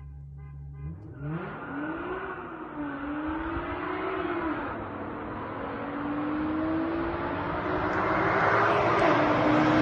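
A car launching hard from a standing start and accelerating flat out through the gears: the engine note climbs, drops back at each upshift, about three times, and climbs again, with road and wind noise growing as speed builds. Just before the launch, a steady low hum with a short run of quick beeps.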